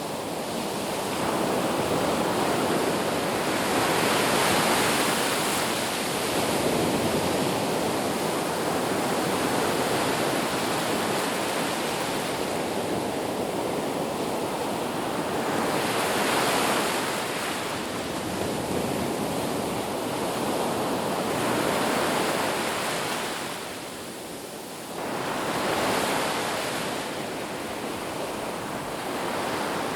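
Ocean surf breaking on a beach, a continuous wash of noise that swells and eases with each wave, every few seconds.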